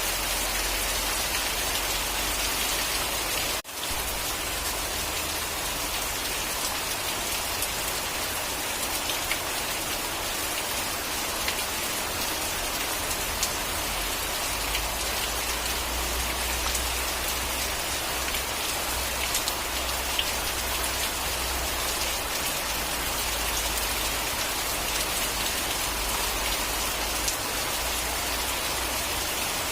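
Steady rain falling, an even hiss with scattered ticks of individual drops. The sound cuts out for a moment about four seconds in.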